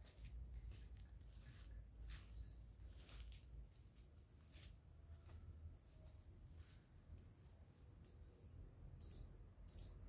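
Faint bird chirps: short, high calls every second or two, louder and closer together near the end, over a steady low rumble.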